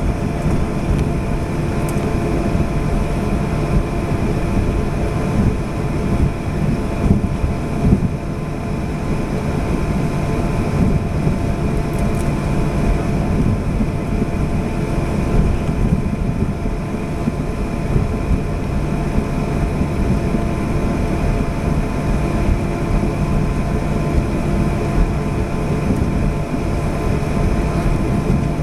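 Jet airliner's engines running, heard inside the passenger cabin as a steady, loud rumble with several constant whining tones on top.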